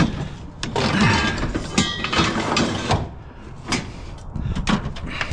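Scrap metal scraping and clanking as it is shifted and loaded: a long scrape about a second in, then a few sharp knocks.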